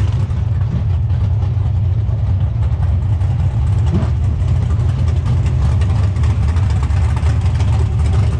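Drag-race car engine idling steadily, low and loud, with a fast even firing pulse.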